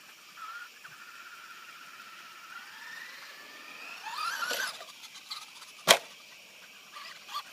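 Traxxas Rustler RC truck's electric motor whining, rising slowly in pitch as it accelerates, then revving sharply about four seconds in. Just before six seconds comes a single sharp, loud impact, the truck landing hard from a jump.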